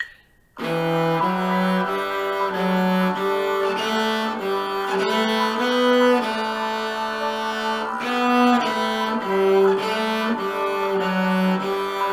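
Cello bowing a simple waltz tune in 3/4, note by note, starting about half a second in, right after the last of three count-in metronome clicks.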